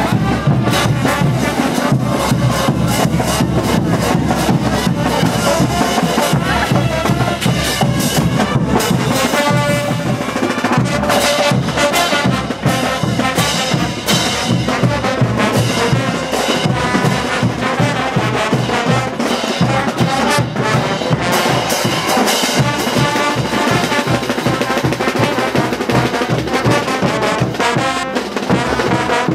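Brass band playing diablada dance music, with trumpets and trombones carrying the melody over steadily beating drums.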